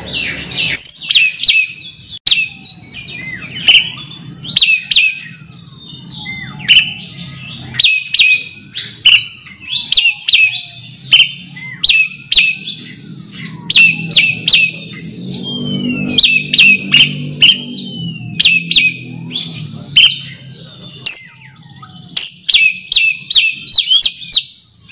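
Oriental magpie-robin singing a fast, continuous run of sharp, varied whistles and chattering notes, a challenge song to a rival. A low murmur runs underneath, strongest in the middle.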